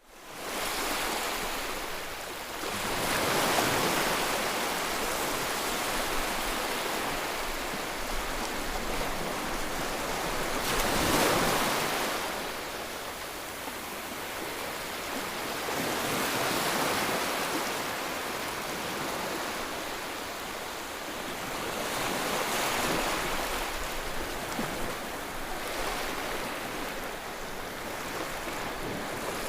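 Ocean waves washing onto a shore: a steady wash of surf that swells and fades roughly every six to seven seconds.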